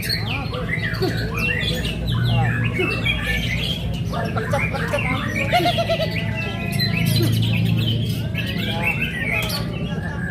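White-rumped shama (murai batu) singing a busy, unbroken stream of quick whistles and chirps, over a steady low hum.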